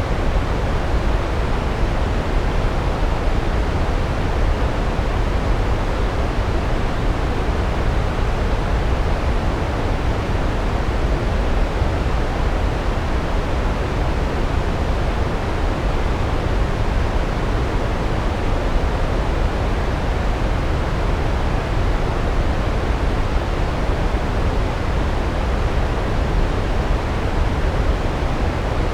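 A large waterfall rushing steadily, a dense unbroken noise heaviest in the low end.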